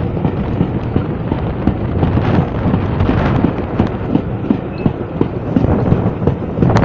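A train running past below, a steady rumble with irregular low knocks of wheels over rail joints, mixed with wind buffeting the microphone.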